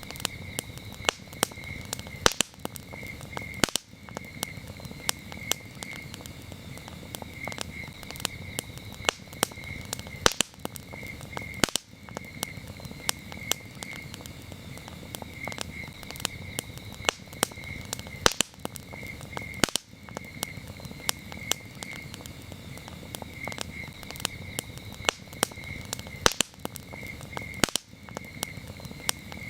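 Campfire crackling, with frequent sharp pops and snaps over a low steady rush of the burning wood. Crickets chirp in short repeated trains throughout.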